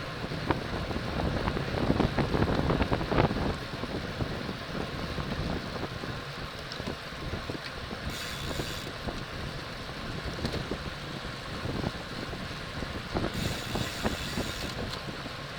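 Wind rushing and buffeting over the microphone of a racing cyclist's camera at speed, mixed with road noise, gustier in the first few seconds. Two short bursts of high hiss come about eight and thirteen seconds in.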